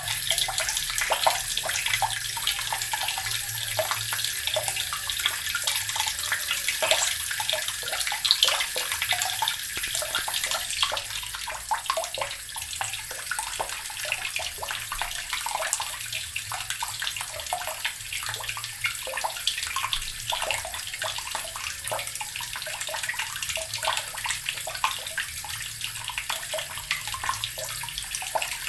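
Water running steadily from a tap and splashing into the basin below, a continuous stream with many small splashes.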